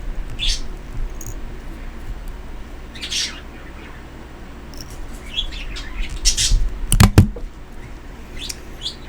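A pet bird chirping in short, high calls at irregular intervals, with two sharp clicks about seven seconds in.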